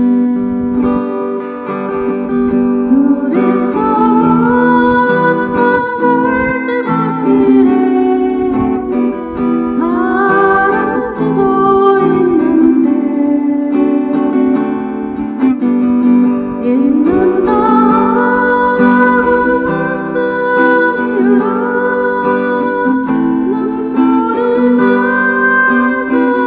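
Acoustic guitar playing a steady accompaniment under a melody that slides and wavers in phrases of a few seconds each.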